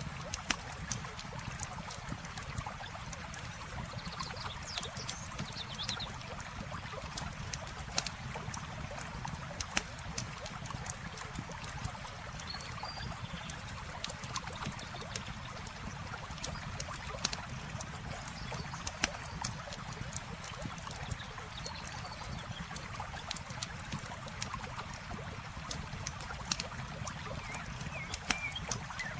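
Campfire crackling with frequent sharp pops over a steady rush of flowing water, with a few faint high chirps now and then.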